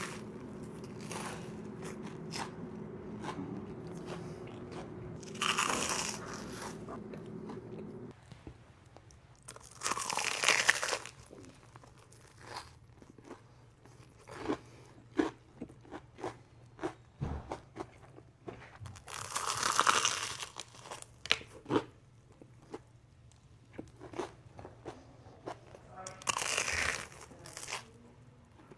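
Close-miked bites into crispy Korean corn dogs: four loud crunches spread through the stretch, each followed by chewing with small wet clicks and smacks.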